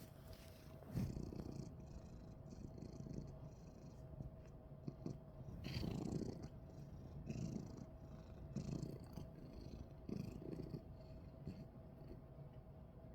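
Domestic cat purring close up, the low rumble swelling and easing about every one and a half seconds with its breathing.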